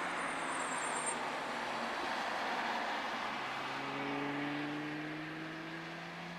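Vehicle engine running at low speed, its pitch rising gently from about three seconds in as it pulls away slowly, over a steady wash of distant track noise.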